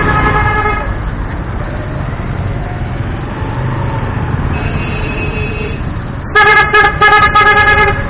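Vehicle horns honking in jammed traffic over a steady low engine and road rumble. A horn sounds in the first second and a fainter, higher toot comes around the middle. A loud series of short honks follows over the last two seconds.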